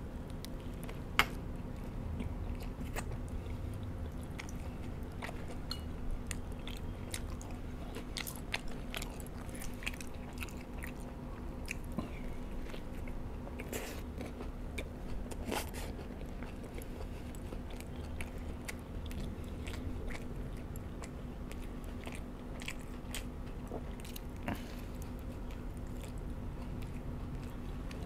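Close-up mouth sounds of a man biting into and chewing a fried chicken burger: one sharp crunch about a second in, then steady soft chewing with small wet clicks over a faint steady low hum.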